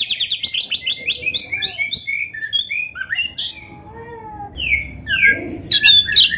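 Oriental magpie-robin (kacer) singing: a fast run of repeated high notes, then varied whistled phrases, a short lull, and a loud burst of varied notes near the end.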